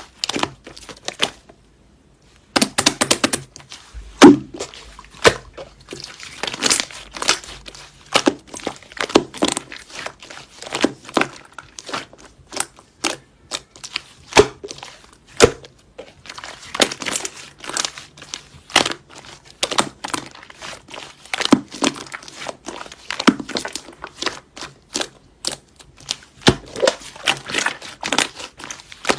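Slime being squeezed, folded and pressed by hand, with irregular crackling, popping clicks and squelches.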